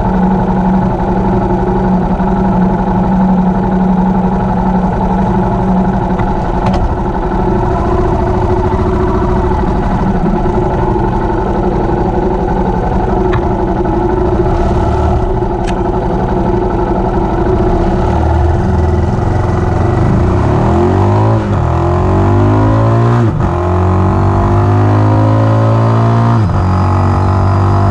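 Yamaha XT660R single-cylinder engine with an open exhaust, running at a steady note, then accelerating hard near the end with the pitch climbing. Two gear changes briefly break it and the pitch climbs again after each.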